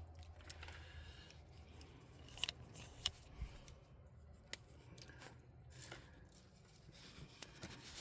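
Faint, scattered sharp clicks and light scrapes of hands and tools working vacuum hoses loose from a carburetor, with a low steady hum underneath; the loudest clicks come about two and a half and three seconds in.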